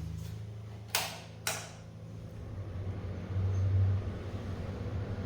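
Two sharp clicks about half a second apart, over a steady low hum that swells briefly a little past the middle.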